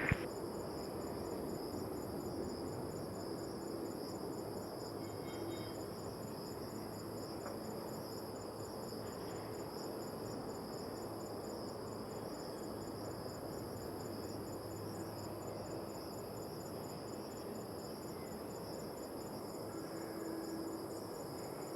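Steady, high-pitched chorus of insects, with a faint even background rumble beneath it.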